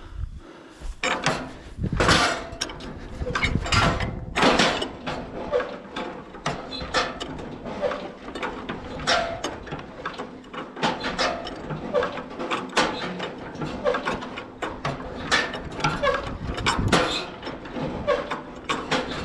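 Farmall A's four-cylinder engine idling, throttled down with a little choke while it warms up, with irregular clicks and knocks over the running.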